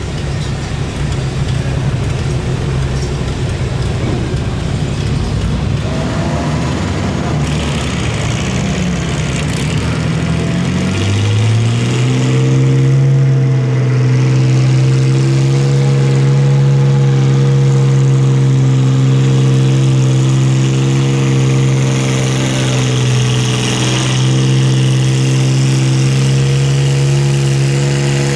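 Engine of a pulling truck or tractor running with a rough low rumble, then revving up about eleven seconds in and holding a steady high pitch for the rest.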